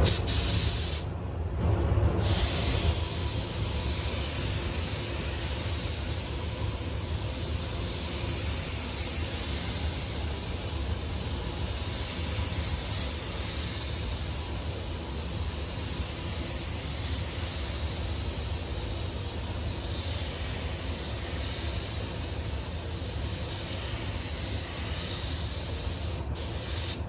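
Compressed-air spray gun hissing steadily as it sprays lacquer clear coat onto a car body panel. The hiss stops for about a second near the start as the trigger is let off, then runs on with a low steady hum underneath.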